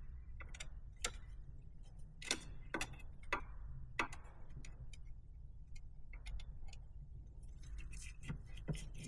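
Irregular sharp clicks and taps of a long screwdriver working a hose clamp on the turbo inlet pipe, over a steady low hum.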